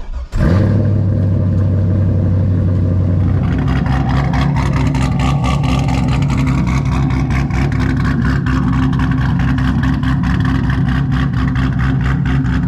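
A cammed Chevrolet Corvette C5's LS V8 starting: it fires about half a second in and holds a steady, faster idle for a few seconds. It then settles into an uneven, pulsing idle, the sound of the aftermarket camshaft.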